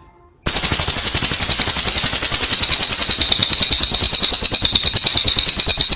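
Cililin bird singing a loud, very fast rattling trill of high notes. The trill starts about half a second in and sinks slightly in pitch as it goes on.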